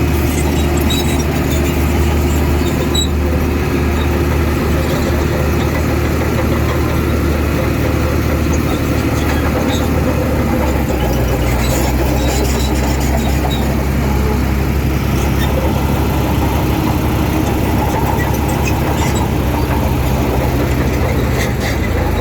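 Heavy diesel engine of earthmoving machinery running steadily, its low engine note changing about halfway through.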